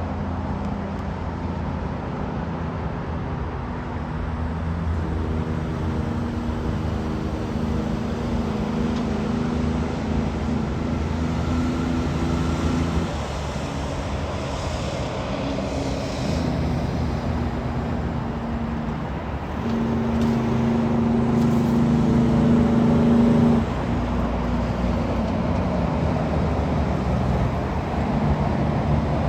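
Semi-trailer trucks passing on a road amid steady traffic noise, their engines heard as a steady droning note twice: first for several seconds, then louder near the end.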